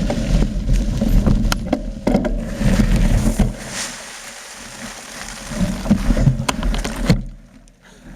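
Mountain bike riding over a rough trail: a continuous rumble of wind and tyre noise with scattered clicks and knocks from the bike rattling. It drops away briefly near the end.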